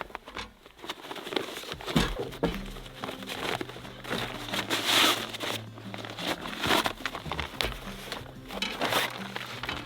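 Crinkling and knocking of camping gear being handled, in a string of short irregular bursts, over soft background music.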